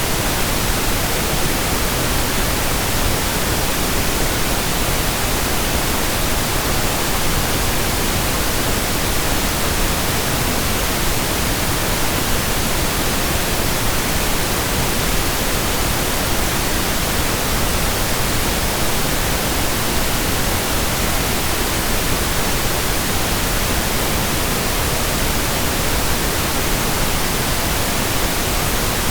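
Steady synthetic pink noise: an even, unbroken hiss spread across all pitches, with no tones or events in it.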